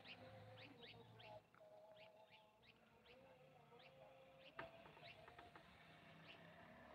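Faint bird chirps, each a quick falling note, repeated several times a second over a faint low hum. There is one soft knock about halfway through.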